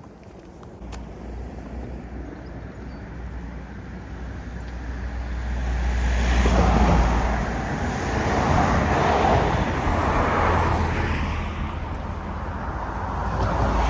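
Road traffic: vehicles passing close by, the tyre and engine noise swelling to its loudest about six or seven seconds in, with more passing around nine to ten seconds.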